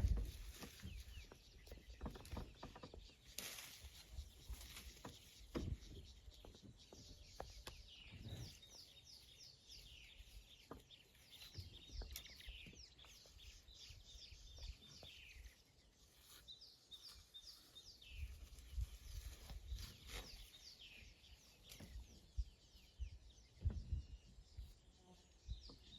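Wild birds chirping in quick repeated phrases throughout, with faint low knocks and rustles scattered among them.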